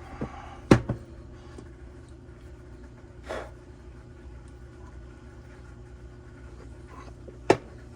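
Sharp knocks of hard objects being handled and set down, one under a second in and another near the end, with a brief rustle between them, over a steady low hum.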